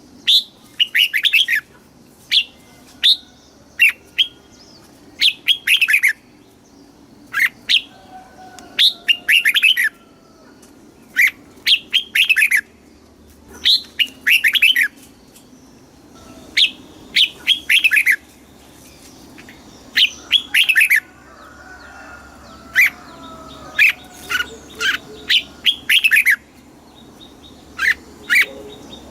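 Red-whiskered bulbul singing: short, quick, bright whistled phrases, repeated every second or two with brief gaps between them. Fainter, lower bird calls sound underneath in places.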